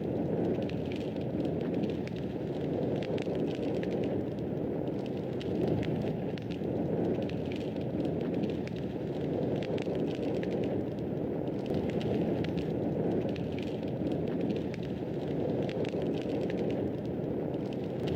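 Wood fire in a fireplace crackling and popping: frequent irregular small snaps over a steady low rush.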